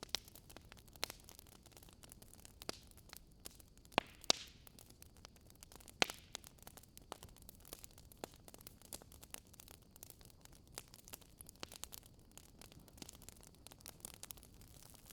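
Firewood burning in a fireplace, crackling: irregular sharp pops over a soft steady hiss, with a few louder snaps about four and six seconds in.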